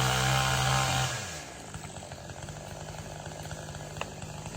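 Two-stroke chainsaw running fast, then the throttle is let off about a second in and it drops to a rattling idle. A single short click comes near the end.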